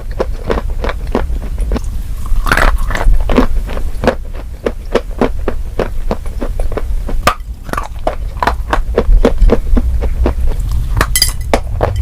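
Close-miked crunchy chewing and biting, a quick irregular run of sharp crunches, over a steady low hum.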